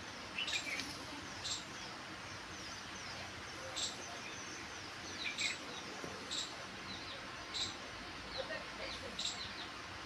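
Small birds chirping: short, high single chirps every one to two seconds, with fainter quick twitters between them, over a steady outdoor hiss.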